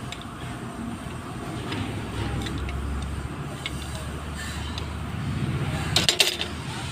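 A low, steady engine rumble, with a quick cluster of sharp clicks about six seconds in.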